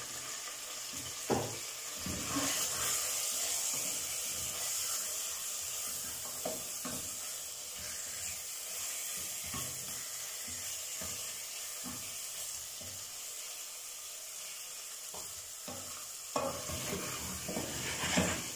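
Chicken pieces sizzling steadily as they fry in oil and sauce in a stainless steel pot, while a wooden spoon stirs them with irregular scrapes and knocks against the pot, a few louder ones about a second in and near the end.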